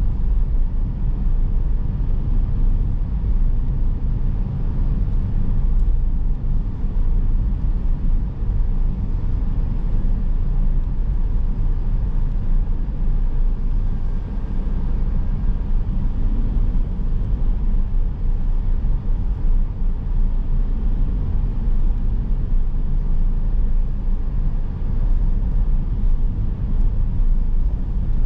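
Steady driving noise of a car on the move: a low, even rumble of road and running noise, with no marked changes.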